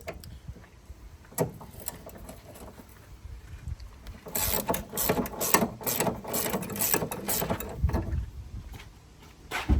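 Hand tools working on car engine parts: scattered metallic clicks and knocks, then a dense run of rapid clicking in the middle, like a ratchet wrench being worked.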